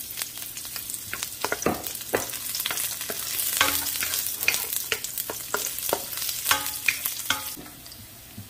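Sliced garlic and ginger sizzling in hot oil in a nonstick wok, with a wooden spatula scraping and clicking against the pan as it stirs. The sizzle quietens about a second before the end.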